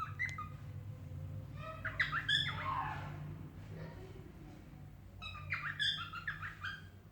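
Cockatiel singing: a short call, then two bursts of rapid chirped whistle notes a few seconds apart, over a steady low hum.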